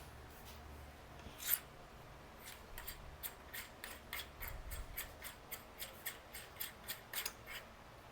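Star nut setter tool being worked off a bicycle fork steerer tube, giving light metallic clicks. There is one louder click about 1.5 seconds in, then a quick run of ticks at about three to four a second that stops near the end.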